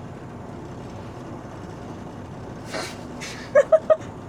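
Steady low rumble of a semi truck's engine heard from inside the cab as it rolls slowly. Near the end come a couple of short breathy bursts and then three quick, loud voiced blips, like a brief laugh.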